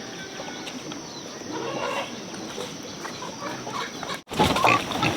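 Chickens clucking over a steady background hiss. Just after four seconds in, the sound drops out for a moment and comes back louder and busier.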